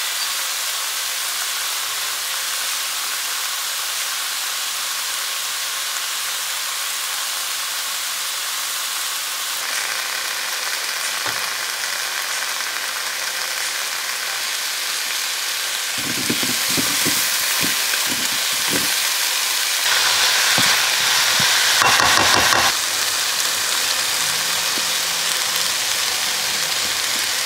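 Chopped vegetables and greens sizzling steadily in oil in a skillet. From about two-thirds of the way in, a utensil knocks and scrapes against the pan as the food is stirred, and the sizzle gets louder.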